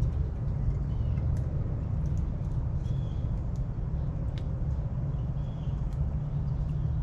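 Backyard outdoor ambience: a steady low rumble, like distant traffic, with short, high bird chirps every second or so and a few faint ticks.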